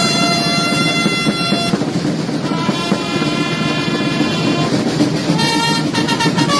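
Drums rolling continuously while trumpets sound three long held notes with short gaps between them, in the style of the Sartiglia's drummers and trumpeters.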